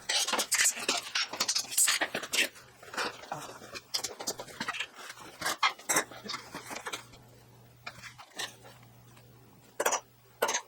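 Irregular clinks and clatter of small metal tools and steel parts being handled and set down, busiest in the first few seconds, then sparser. A faint steady hum runs beneath it in the second half.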